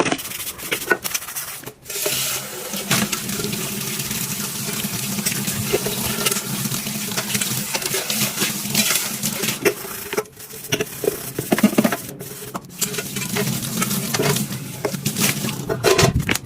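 Water running at a sink, with scattered clinks and knocks.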